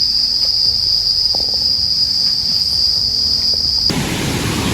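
An insect's continuous high-pitched trill, held on one steady note, cutting off suddenly near the end. A rushing noise takes over after it.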